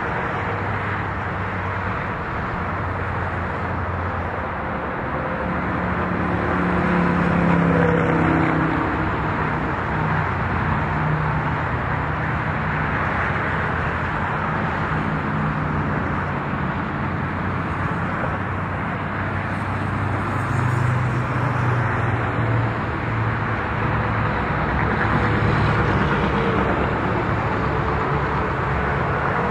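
Diesel-hauled freight train running by: a steady rumble of rolling wheels under the drone of locomotive engines, which rises and falls in pitch.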